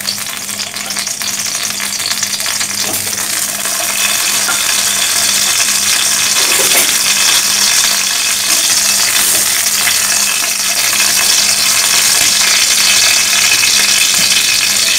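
Whole oil-rubbed eggplants sizzling in a little hot oil in a metal kadai. The hiss grows louder over the first few seconds, then holds steady.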